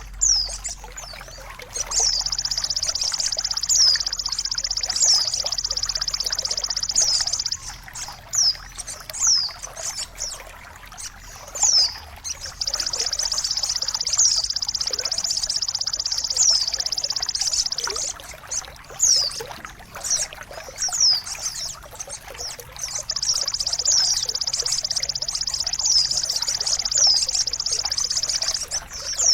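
Songbird tutoring recording: a small bird gives quick, high, downward-sweeping chirps, broken three times by a long, high, buzzy trill of about five seconds. Trickling water runs underneath.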